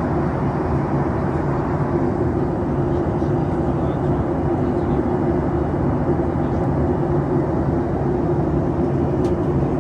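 Steady cabin noise inside a Boeing 737 MAX in flight: the even rush of airflow and engine drone, with a constant low hum underneath.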